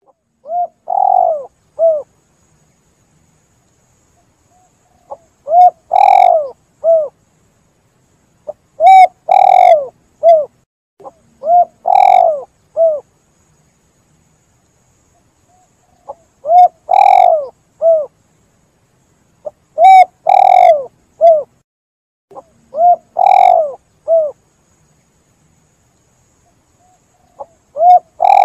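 Spotted dove (tekukur) cooing: about eight three-note phrases, each a short note, a longer middle coo and a short closing note, repeated every few seconds with silence between.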